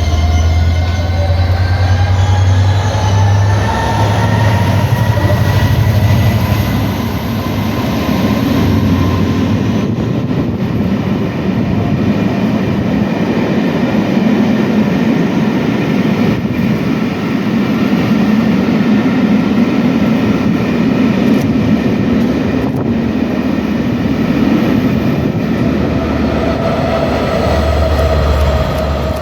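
A train running through the station as it gathers speed, with a rising whine over the first few seconds and a steady rumble of wheels on rail.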